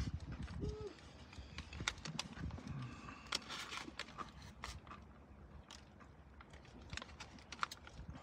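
Close-up chewing of a hash brown: irregular wet mouth clicks and smacks, several every second.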